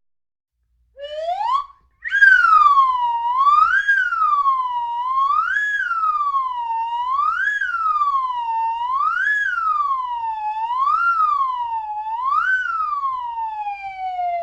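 Wailing siren sound effect: the tone winds up, sweeps up and down about seven times in a slow, even wail, then winds down near the end.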